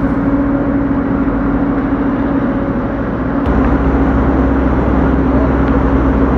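Heavy excavator's diesel engine running steadily with a constant drone, the low rumble changing abruptly about halfway through.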